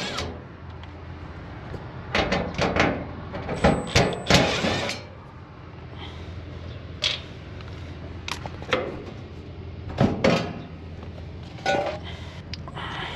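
Scattered knocks, clinks and clatters of tools and fittings being handled, several in a burst in the first five seconds and then single knocks every second or two, over a steady low hum.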